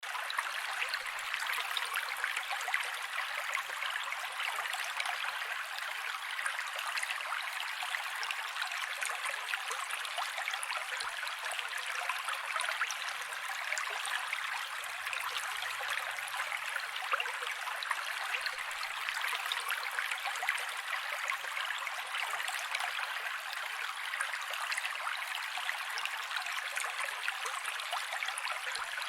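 Mountain creek flowing steadily, a continuous rush of water with dense small splashes and bubbling over stones and little deep sound.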